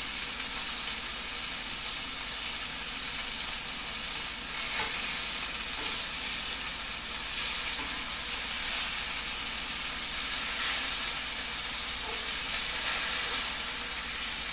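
Flour-coated chicken tenders sizzling in hot oil in a cast iron skillet, a steady frying hiss that swells briefly a few times while the pieces are turned over with tongs.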